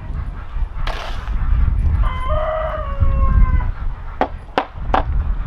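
A rooster crows once, a drawn-out call of about a second and a half that falls slightly in pitch, followed by three sharp clicks or knocks.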